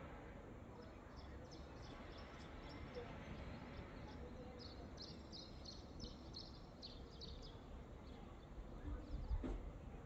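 A small bird chirping a quick run of short, high notes for several seconds over a faint, steady low rumble of outdoor background noise, with a low bump near the end.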